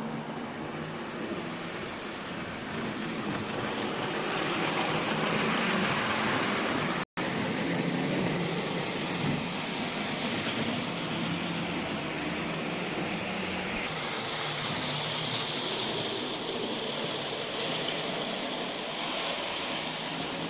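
Märklin H0 model locomotive and wagons running on vintage metal M-track, a steady noisy running sound of motor and wheels on the rails. It grows louder for a few seconds, then cuts out for an instant about seven seconds in before carrying on.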